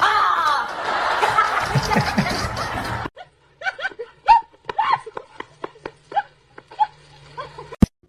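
People laughing: a loud, dense stretch of laughter and noise for about three seconds, then after a sudden cut, scattered short snickers.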